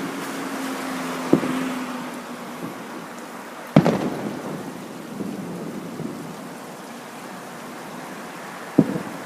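Aerial fireworks shells bursting in three booms, the loudest about four seconds in and the last near the end, with a rumbling echo and crackle between them.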